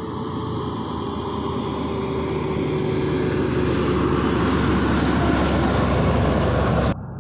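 Heavy truck on a highway drawing near, its engine and tyre rumble growing steadily louder with a faint slowly falling tone, then cutting off suddenly near the end.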